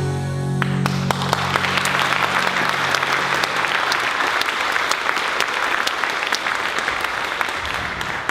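Audience applauding, a dense patter of many hands clapping, while the last held chord of the song dies away over the first few seconds.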